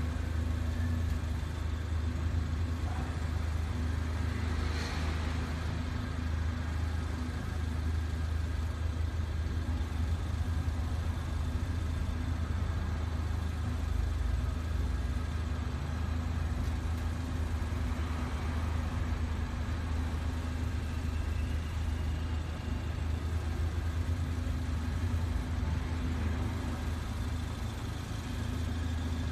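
Range Rover Evoque Convertible's engine idling with a steady low hum.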